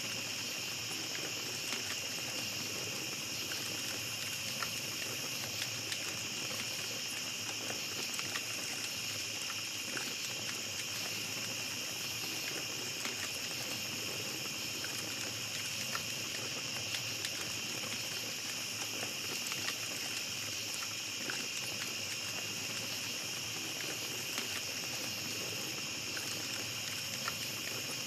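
Steady high-pitched chorus of night insects, with the small scattered crackles and pops of a campfire throughout.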